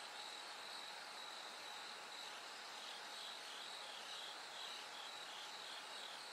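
Bell crickets singing: a faint, steady high-pitched ringing chorus. From about halfway in, a repeated short pulsing trill comes in at roughly two to three pulses a second.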